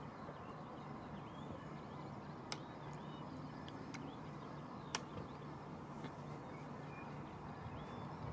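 Faint birdsong, short chirps and trills, over a low steady hum, with a few sharp clicks.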